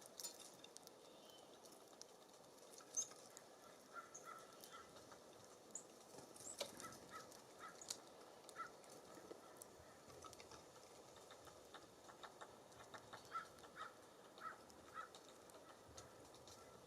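Faint, scattered bird calls and high chips, with small sharp taps, at a backyard bird feeder.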